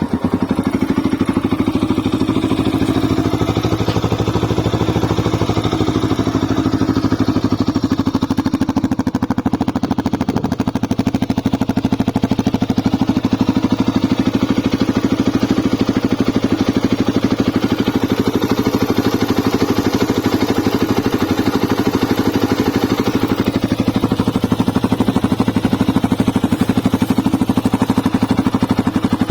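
Vehicle engine idling steadily just after being started, with an even, fast pulsing beat.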